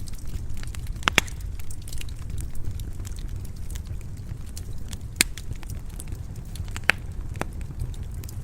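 Wood fire in a stone fireplace crackling over a steady low rumble, with scattered sharp pops, the loudest a quick pair about a second in and single ones later on.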